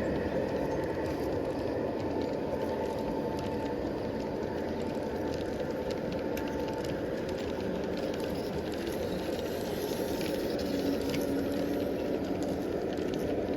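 Battery-powered model train running along its track: a steady rumble of motor and wheels with scattered faint clicks.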